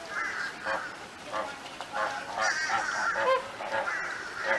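A flock of American flamingos honking, a goose-like chatter of many short overlapping calls, several a second.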